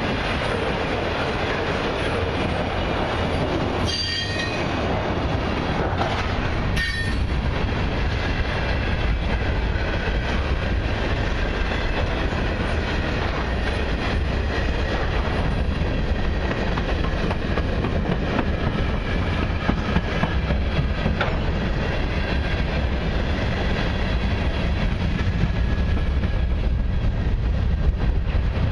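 Freight train of autorack and covered hopper cars rolling past close by: a steady rumble of steel wheels on rail, with a couple of brief high-pitched wheel squeals about four and seven seconds in.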